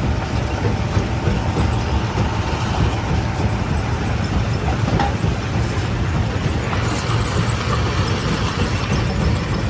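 Heavy stone-crushing machinery running steadily with a deep, continuous rumble, with one short knock about halfway through.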